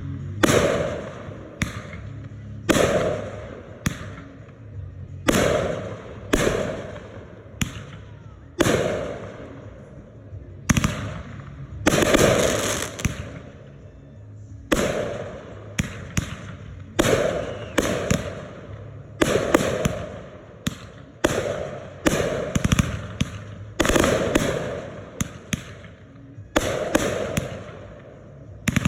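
Consumer aerial fireworks going off in a rapid series of sharp bangs, roughly one a second, each fading away over about a second before the next.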